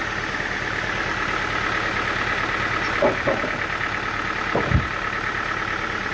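An engine running steadily at a constant speed. There are a few short sounds over it, about three seconds in and again just before five seconds.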